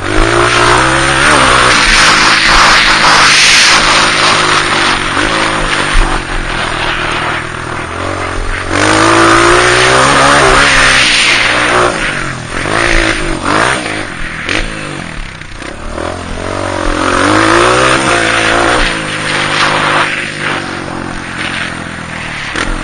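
Honda CRF 230 dirt bike's single-cylinder four-stroke engine being ridden hard, its pitch rising and falling again and again as it revs up and backs off. It is loudest in the first few seconds, again about ten seconds in, and again near eighteen seconds.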